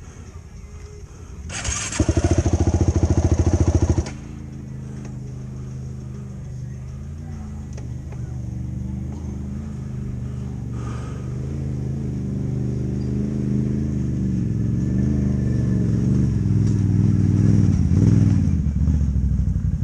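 Yamaha YFZ450 ATV's single-cylinder four-stroke engine: a loud burst of hard throttle starting about a second and a half in and cutting off abruptly at about four seconds, then running on at lower revs with a wavering pitch, slowly getting louder as it rides, and easing off near the end.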